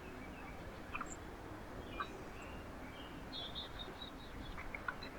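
Small birds giving short high chirps at a backyard feeder, with a few brief clicks, over a steady low background noise.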